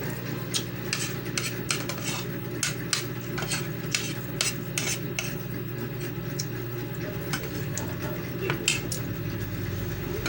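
Spoon and fork clinking and scraping against a plate during a meal: many quick clicks, thicker in the first half and sparser later. A steady low hum runs underneath.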